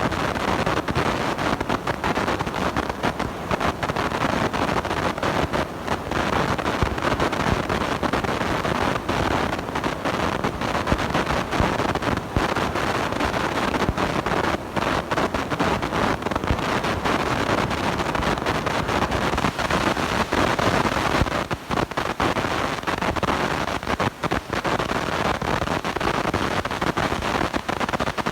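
Blown microphone giving a continuous harsh noise, a dense steady rush full of small crackles and brief dropouts.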